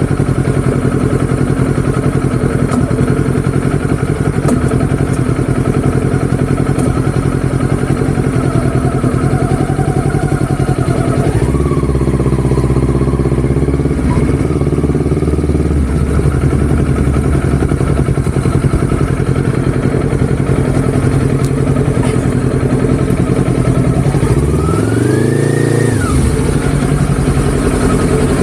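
Vehicle engine running steadily, its revs changing about twelve seconds in and rising then falling again near the end.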